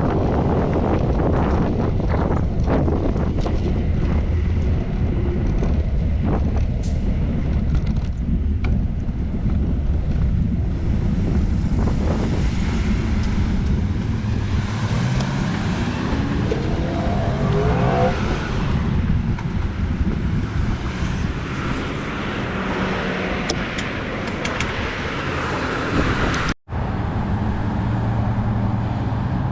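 Steady low rumble of wind and road noise on a moving bicycle, with traffic around. A motor vehicle passes about halfway through, its engine note rising. The sound cuts out for an instant near the end.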